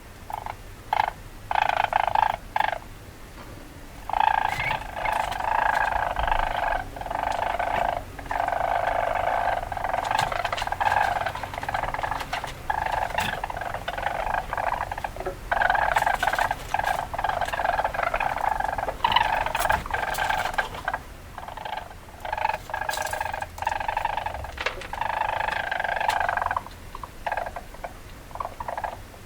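Weasel chattering in rapid bouts lasting a few seconds each, broken by short pauses and sharp clicks.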